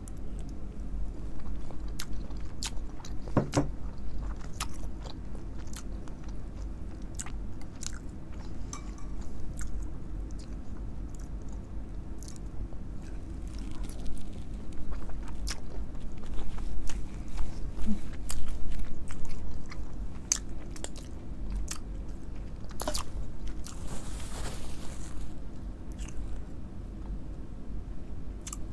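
A person chewing a sauce-coated piece of seafood close to the microphone, with many short, sharp mouth clicks that are busiest and loudest about halfway through.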